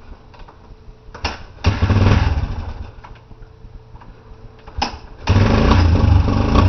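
2002 Suzuki 125 dirt bike's engine being cold started: it fires for about a second after the first try and dies, then catches on the second try about five seconds in and keeps running.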